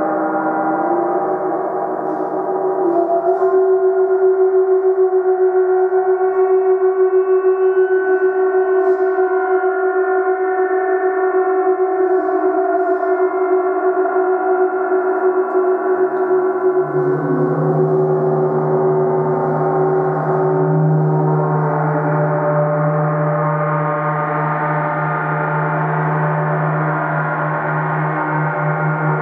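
30-inch Sound Creation Earth Element symphonic gong played continuously, a dense, sustained wash of ringing overtones with a wavering loudness. About seventeen seconds in, a deeper low tone swells up beneath the shimmer.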